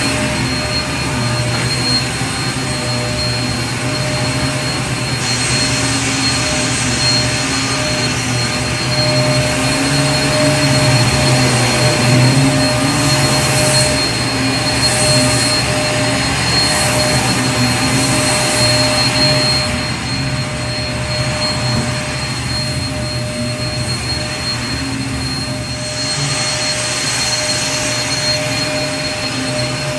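Vacuum cleaner running steadily: a motor hum with a steady high whine over rushing air. The hiss grows brighter for a few seconds at a time, about five seconds in, again in the middle, and near the end.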